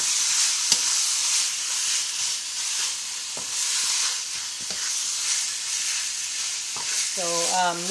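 Chicken pieces in red curry paste sizzling as they fry in a pan while being stirred, with a few light knocks and scrapes of the utensil against the pan.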